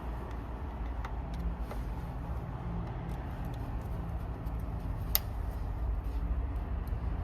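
A steady low mechanical rumble, with a few faint ticks and one sharp click about five seconds in.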